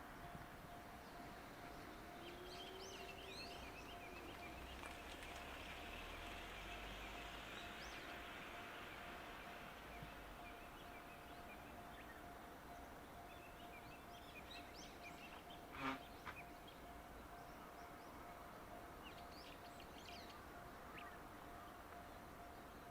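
Quiet outdoor background with small birds chirping now and then and a faint steady tone, and one short, louder call about two-thirds of the way through.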